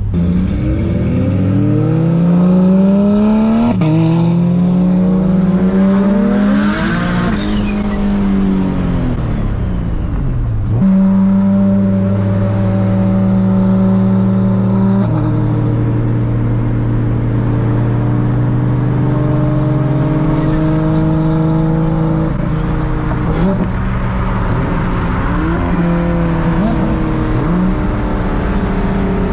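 Big-turbo Nissan 350Z's VQ35HR V6 pulling hard, its revs climbing to a gear change about four seconds in, climbing again and then falling away. After that it runs at steady revs for several seconds, with a further gear change about midway and uneven throttle near the end.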